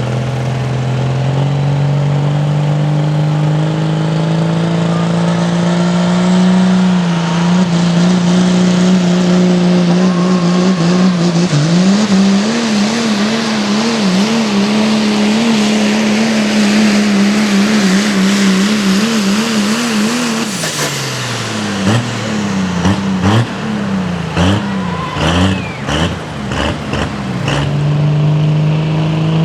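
Pro Stock diesel pulling truck's engine at full throttle under load, its pitch climbing steadily and then holding with a quick up-and-down wavering. About two-thirds of the way in the engine drops off, then revs in short, choppy blips before settling to a steady run near the end.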